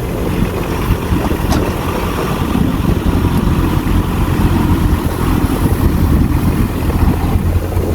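Diesel engine of a heavy earthmoving machine running steadily, a deep, even drone.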